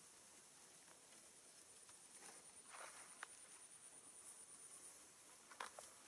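Near silence: faint outdoor ambience with a few soft rustles or taps and a thin, high, steady tone through the middle.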